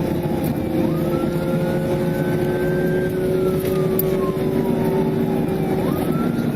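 Police siren wailing: its pitch rises quickly and falls slowly, about once every five seconds, climbing again near the end. Under it is the steady engine and road noise of a patrol car driving at high speed in pursuit.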